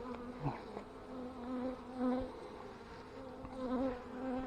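Honeybees buzzing as they fly around an opened hive, several passing close by so the buzz swells and fades again and again.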